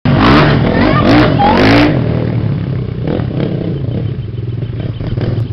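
Honda CRF450 four-stroke single-cylinder motocross engine revving hard in three quick rising surges over the first two seconds, then running at a lower, steadier note.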